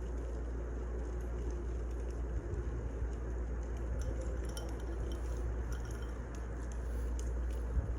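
Firewood burning, a steady low rumble with scattered sharp crackles and pops that come thicker near the end.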